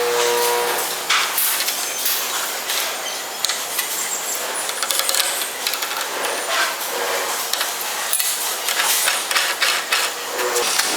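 Continuous mechanical workshop noise: dense irregular knocking, scraping and clattering, with brief bursts of a motor's pitched tone near the start, about seven seconds in and near the end.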